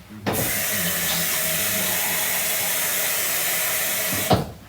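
Water running from a tap, a steady rush of water filling a vessel, starting just after the start and cutting off abruptly near the end.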